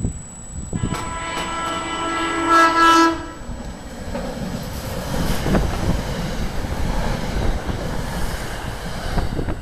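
SEPTA commuter train sounding a multi-tone horn for about two and a half seconds, louder toward the end, then rumbling past with wheels clattering over the rail joints.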